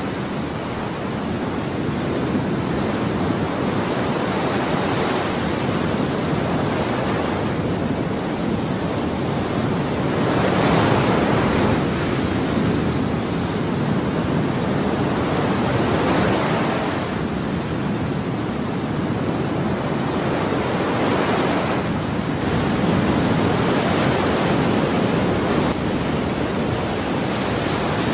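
Ocean waves breaking on a shore: a continuous rushing wash, swelling softly every few seconds as each wave comes in.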